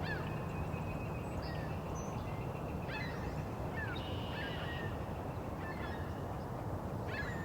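Mixed wild birdsong in a spring park: scattered short, faint chirps and downward-slurred whistles from several birds over a steady low background rumble.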